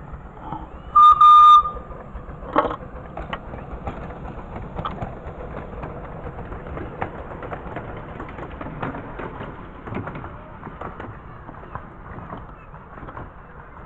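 Miniature railway locomotive whistle giving a short double toot about a second in. It is followed by scattered clicks and rattles over a low running rumble.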